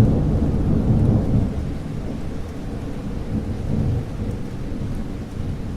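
Low rolling thunder rumbling over steady rain, loudest in the first second and a half, then slowly dying away.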